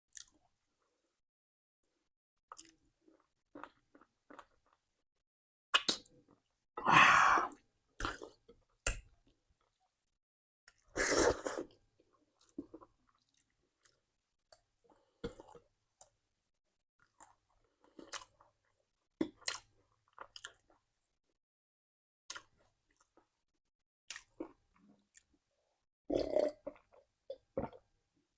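A person chewing and biting food close to the microphone: scattered short smacks and crunches, with two longer, louder bursts about seven and eleven seconds in.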